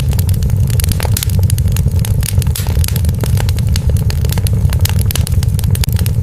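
Wood fire in a fireplace crackling, with many quick snaps and pops over a steady low rumble.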